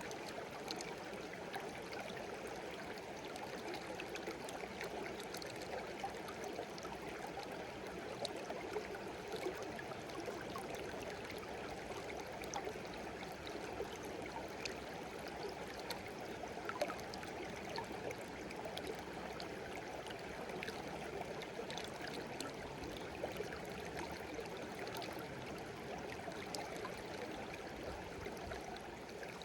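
A shallow stream babbling steadily over stones, a dense even rush with many small splashes and droplet ticks.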